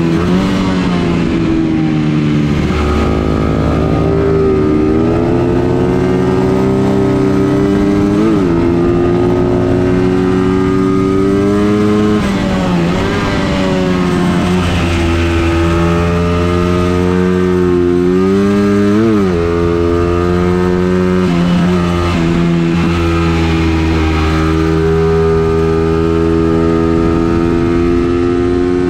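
Vehicle engine running hard around a circuit, its pitch climbing slowly under load, then falling off sharply several times as the throttle is lifted, with two quick dip-and-blip moments, before pulling up again.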